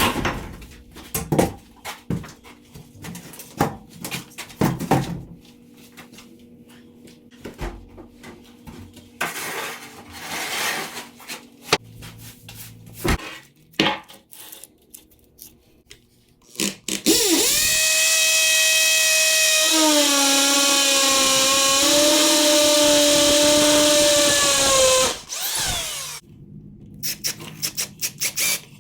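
Scattered knocks and clatter of handling tools and materials, then a power drill runs for about eight seconds with a steady whine that drops in pitch for a while as it comes under load, then stops, followed by more clicks and knocks.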